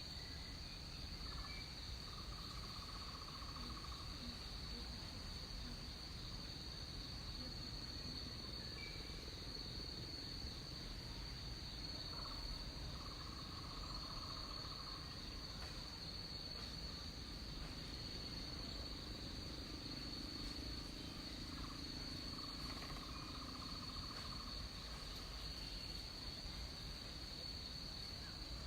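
Jungle night ambience: a steady, high-pitched chorus of insects such as crickets runs throughout. Three times, about ten seconds apart, a lower trilled call lasting about two seconds rises out of it.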